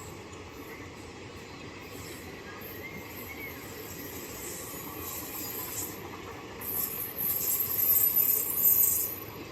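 Passenger express train running through a station with a steady rolling rumble. From about seven seconds in, a loud high-pitched wheel squeal rises and comes and goes.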